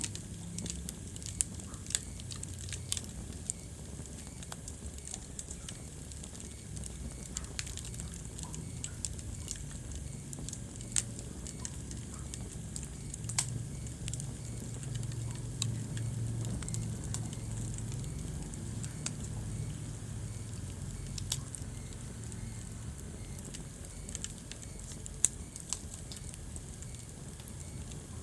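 Wood fire burning in a fireplace: a steady low rumble of flames with continual small crackles and an occasional louder, sharp pop from the burning logs.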